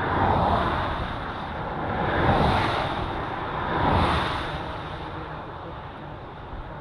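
Vehicles passing on a road one after another: three swells of engine and tyre noise that build and fade, the loudest about two seconds in.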